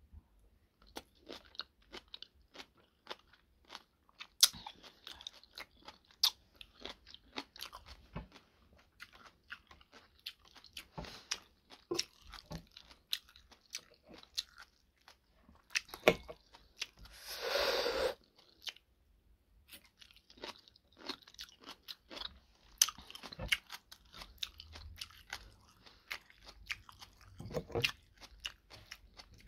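Close-up chewing and crunching of homemade kimchi, with sharp clicks of a metal fork against a ceramic bowl. A little past the middle comes one breathy rush lasting about a second.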